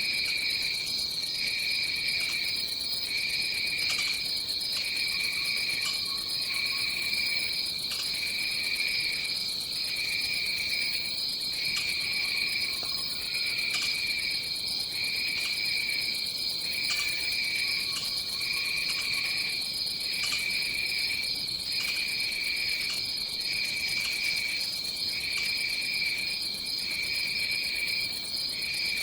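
Rainforest insect chorus: a steady high-pitched drone with a lower trill that pulses on and off roughly every second and a half.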